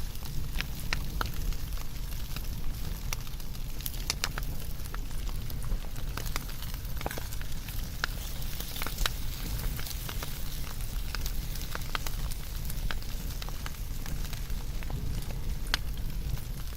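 Wood fire burning, crackling with frequent irregular sharp pops and snaps over a steady hiss and low rumble of the flames.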